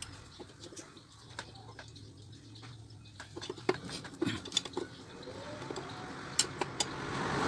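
Quiet background with scattered light clicks and taps, a few sharper ones in the second half.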